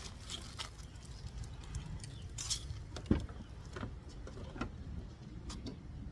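Light clicks, clinks and small knocks of camping gear being handled and shifted in the back of a car, with one louder knock about three seconds in.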